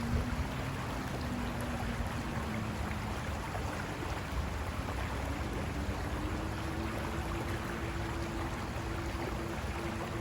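River water rushing over rocks, a steady, unbroken noise. A faint low hum runs underneath and shifts up a little in pitch about halfway through.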